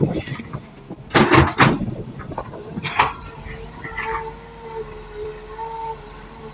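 A heavy machine's engine runs with a steady hum. About a second in there is a loud, noisy burst lasting under a second, and a short click follows a couple of seconds later.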